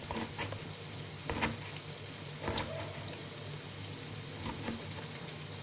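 Pot of onions, tomatoes and scotch bonnets in oil sizzling steadily on the stove, with about six sharp knocks scattered through.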